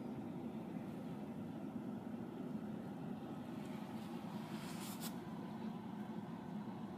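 Steady low rumbling background noise, with a brief faint hiss about five seconds in.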